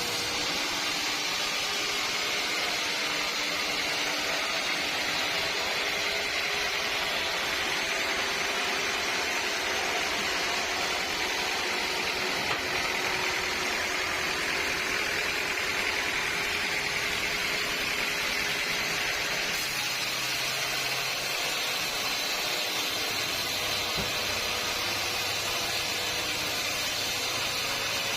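Sawmill saw running steadily through a teak log: a continuous whirring hiss with no breaks.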